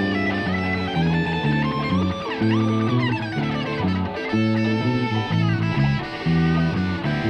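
A live blues band playing an instrumental passage: an electric guitar lead with string bends over a bass guitar line.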